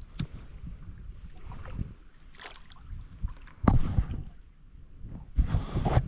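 Canoe paddle strokes splashing and dripping in lake water, in irregular pulls, the two loudest in the second half.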